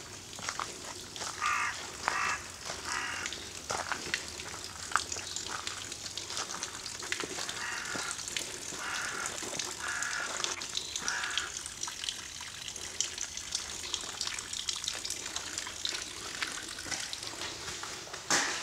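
A bird calls in short harsh notes, a few in quick succession about a second in and another run from about seven to eleven seconds in, over a steady outdoor hiss. Footsteps crunch on gravel and stone throughout, with a sharp knock near the end.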